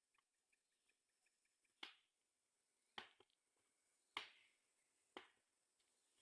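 Four sharp cracks or snaps, each about a second after the last, against a very quiet background with faint small ticks.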